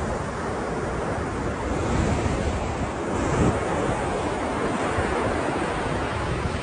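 Ocean waves breaking and washing on the shore in a steady rush of surf, swelling slightly about two and three and a half seconds in.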